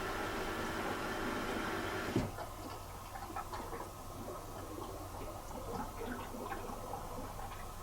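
Bosch Serie 4 SMS46MW05G dishwasher running with a steady hum that stops with a click about two seconds in, followed by faint, irregular ticking.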